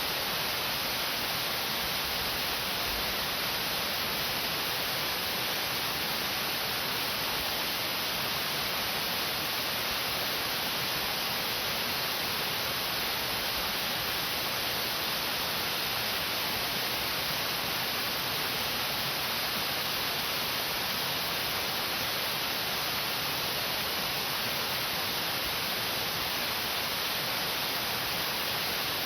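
Waterfall flowing over a rock face: a steady, even rush of water with no changes.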